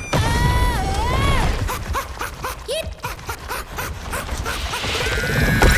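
Cartoon sound effects: squeaky, gliding character vocalizations, with a quick run of short hits and pops in the middle over a low rumble.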